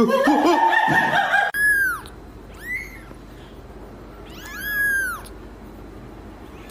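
A short burst of music that cuts off suddenly about a second and a half in, then a domestic cat meowing three times, each meow a short rise and fall in pitch, the second one faint.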